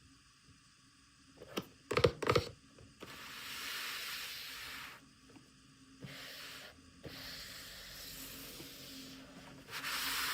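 Packaging being handled: a cluster of sharp clicks and knocks about two seconds in, then several stretches of hissy rubbing and scraping.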